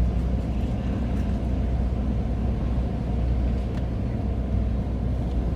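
Steady low engine rumble of an idling vehicle, even throughout.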